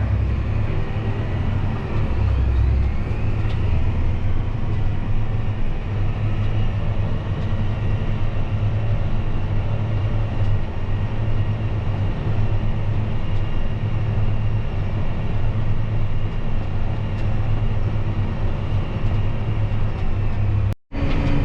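Farm tractor engine running at a steady speed, with a combine working alongside, a continuous low machine drone. The sound drops out for an instant near the end.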